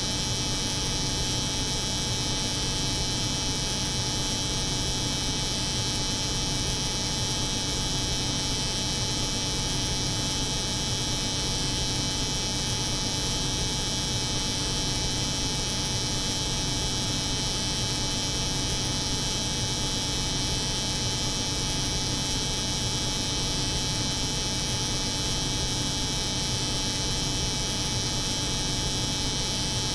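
Steady layered hum of a cold room's refrigeration unit mixed with an electric hair clipper running continuously, unchanging throughout, with a low hum and a bright high buzz.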